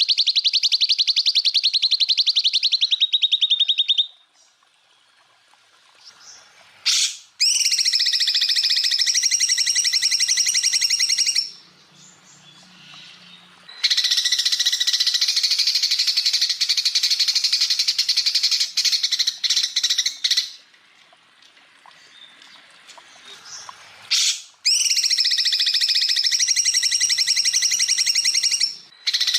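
Greater green leafbird (cucak ijo) singing fast, rattling 'tembakan' trills: four long bursts of rapidly repeated high notes, each lasting several seconds, with short pauses between them.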